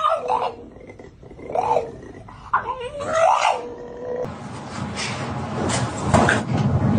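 A pet animal making several drawn-out calls that rise and fall in pitch. About four seconds in, these give way abruptly to a steady rumbling noise.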